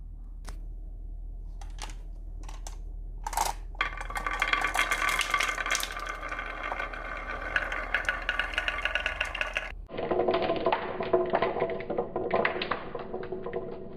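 Wooden marble run: a few single clicks, then a dense, rapid clatter of pieces rolling and rattling down wooden tracks. About ten seconds in, the sound changes abruptly to a lower-pitched continuous rattle.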